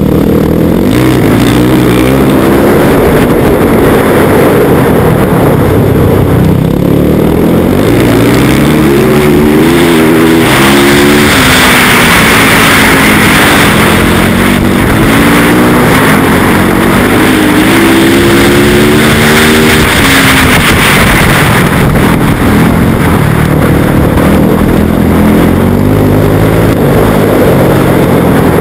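Yamaha YZ450F's single-cylinder four-stroke engine ridden hard, its pitch climbing and dropping again and again as it accelerates, shifts and backs off for the corners.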